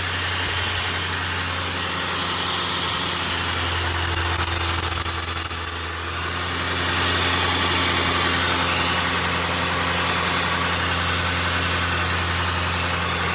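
Ford 4.6 L V8 engine idling steadily, freshly refilled with coolant after a water pump replacement. It gets slightly louder about six seconds in.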